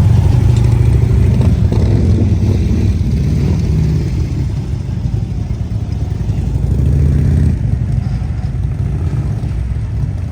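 Motorcycle engine running with a deep rumble, easing off around the middle and picking up again about seven seconds in.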